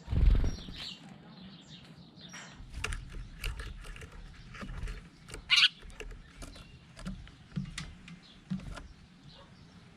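Birds give short chirps, the loudest about halfway through, among scattered clicks, knocks and low bumps of handling.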